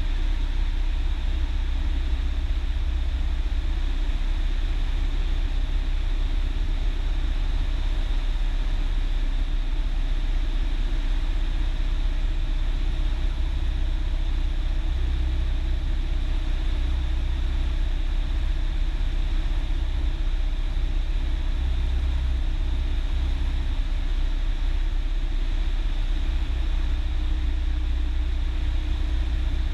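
Cessna 172's single piston engine running steadily.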